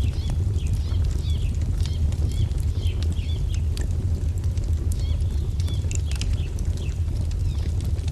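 Wood fire crackling with sharp, scattered pops over a steady low rumble, while small birds chirp repeatedly in short, quick calls.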